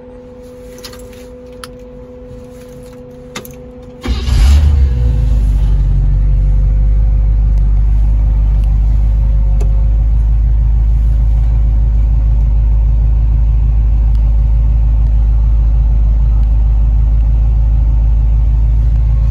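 A few light clicks over a faint steady hum, then about four seconds in the 1941 car's engine starts up almost at once and settles into a steady low idle.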